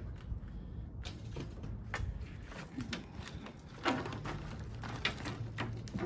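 Scrap copper windings and transformer parts being handled: a few scattered metal clinks and knocks, about one a second, the strongest near four seconds in, over a faint low hum.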